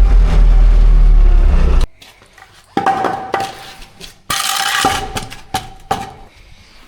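An engine running loudly with a low hum, cut off abruptly about two seconds in; then scattered metal clinks and clanks with a ringing tone, and a brief hiss, as tyre-changing tools and parts are handled.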